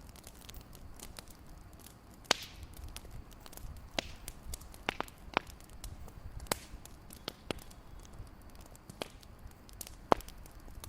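Wood fire crackling: irregular sharp pops and snaps over a low steady rumble, with two louder pops about two seconds in and near the end.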